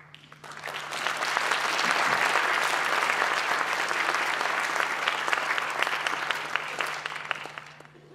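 Audience applauding, swelling up about a second in, holding steady, then dying away near the end.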